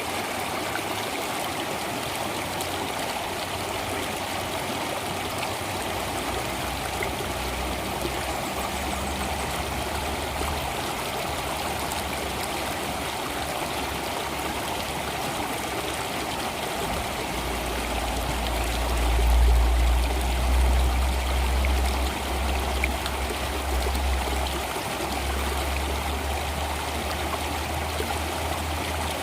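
Stream water flowing and trickling steadily. A deep low rumble builds underneath partway through and is loudest about two-thirds of the way in.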